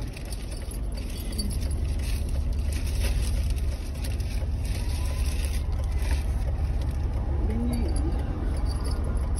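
Car engine idling, heard from inside the cabin of the stopped car as a steady low hum.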